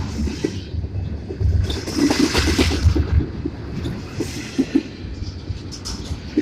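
Union Pacific intermodal freight train passing close by: a low rumble of wheels on rail with irregular knocks and swells of rushing noise.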